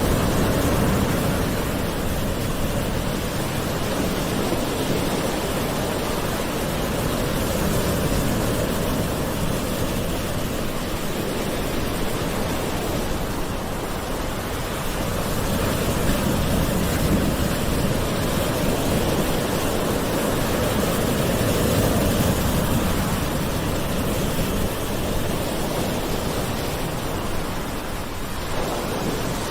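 Gentle ocean waves washing steadily onto a shore, a continuous surf rush that swells and eases slowly every few seconds.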